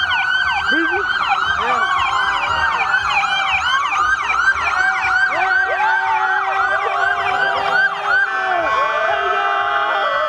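Several police sirens sounding at once in a fast yelp, their rising-and-falling sweeps overlapping at different pitches, about three sweeps a second each.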